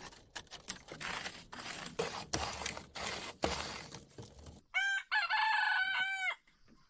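A rooster crowing once near the end, one drawn-out cock-a-doodle-doo of a bit under two seconds. Before it come irregular light scraping and clicking sounds.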